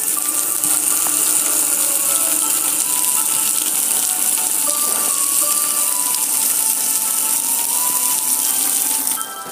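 Water spraying steadily at a car wash, a loud even hiss that cuts off about nine seconds in.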